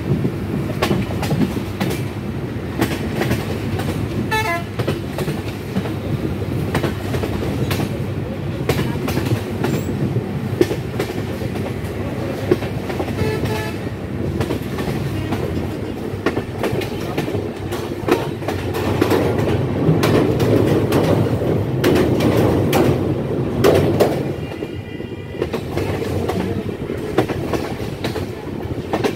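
Ekota Express passenger train running, heard from an open carriage window or door: a steady rumble with wheels clicking over rail joints, swelling louder for a few seconds past the middle. A few brief horn tones sound over it.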